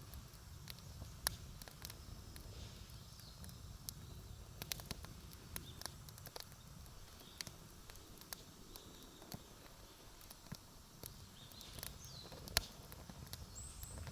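Wood campfire crackling: irregular sharp pops and snaps, one louder snap near the end, over a low steady rumble.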